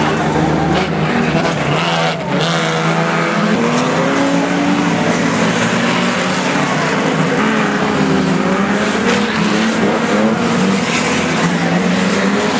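Several banger racing cars' engines revving hard, their pitches rising and falling over one another as the cars spin and collide in tyre smoke, with a sharp bang about two seconds in.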